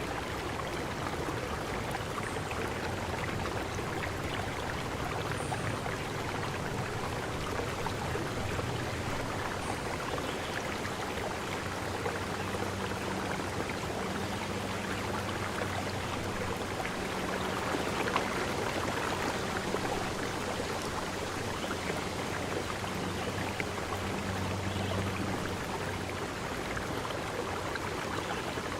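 Stream water running with a steady rush. A faint low hum comes in about halfway through, and a few faint high chirps sound in the first part.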